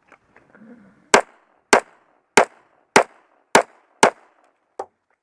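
Six pistol shots fired at about half-second intervals on a shot-timer start, each a sharp crack with a short echo, followed by a fainter crack near the end.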